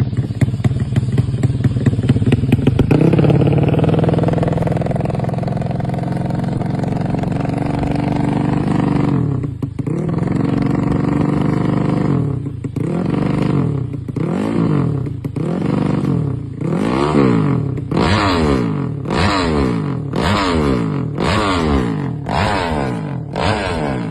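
A vehicle engine running, at first with an uneven, crackling note, then steady; from about ten seconds in it is revved again and again, each rev rising and falling in pitch, the revs coming quicker toward the end.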